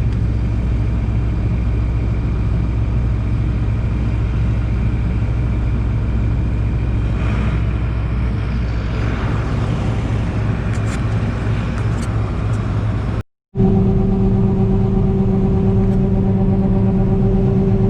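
John Deere 9760 combine running steadily under load, a dense machine hum. About thirteen seconds in the sound cuts out for a moment and comes back as a steadier hum with a strong, even tone.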